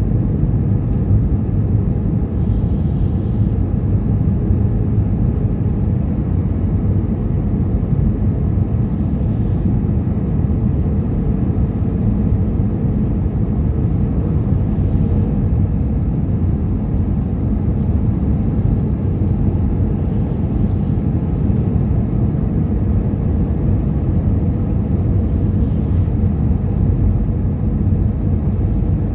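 Airbus A320 cabin noise: a steady, loud roar of jet engines and airflow heard from inside the passenger cabin.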